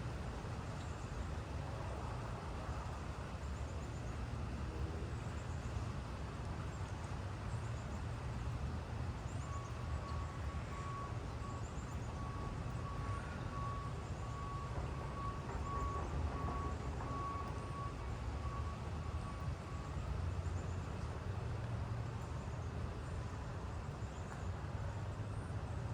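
Steady hiss of rain over a low rumble of distant road traffic. A faint, evenly repeated beeping, like a vehicle's reversing alarm, sounds for about ten seconds in the middle.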